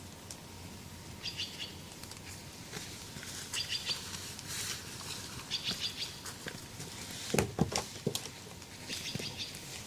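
A bird calling in short rapid chirp bursts, repeated about every two seconds, over a steady background hiss. A few sharp knocks or thumps come about seven and a half seconds in.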